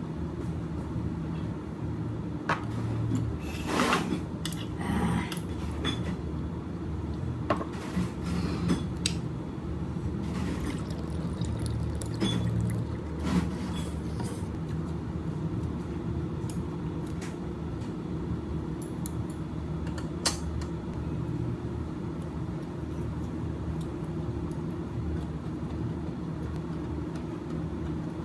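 Table sounds of a meal: scattered clinks and knocks of glasses and dishes over a steady low room hum.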